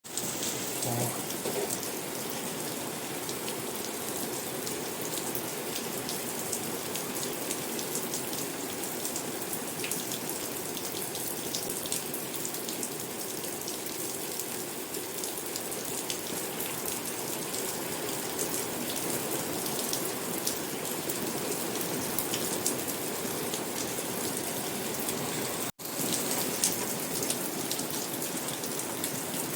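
Steady heavy rain falling and pattering on surfaces, with individual drops ticking through it; no thunder. The sound cuts out for a split second about 26 seconds in.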